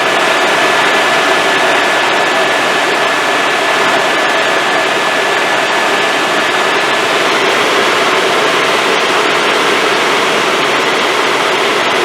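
Helicopter in flight heard from inside the cabin: loud, steady engine and rotor noise, with a thin high whine that fades out about seven seconds in.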